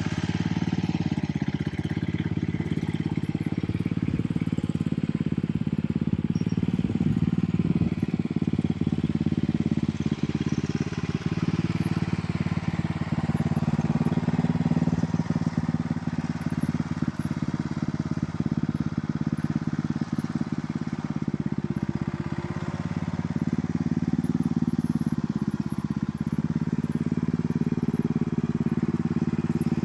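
Vehicle engine running at a steady speed, a continuous low drone.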